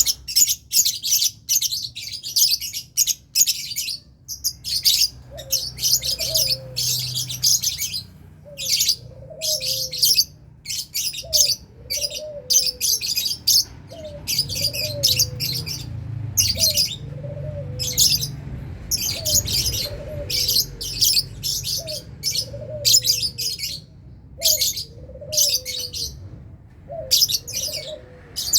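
A colony of lovebirds chattering in a cage: rapid bursts of shrill, high chirps that follow each other almost without pause. From about five seconds in, a lower, curved call repeats roughly once a second beneath the chatter.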